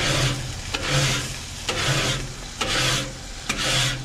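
A paintbrush scrubbing back and forth across the hot steel griddle top in about six even strokes, each a rasping swish with a little sizzle, over a steady low hum.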